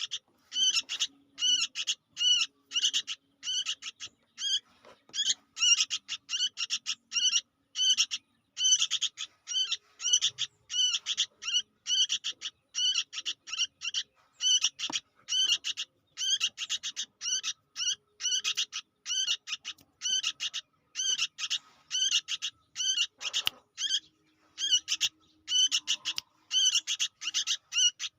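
Sooty-headed bulbul (kutilang) chick calling busily: short, high-pitched chirps repeated about two to three times a second, with brief pauses between runs.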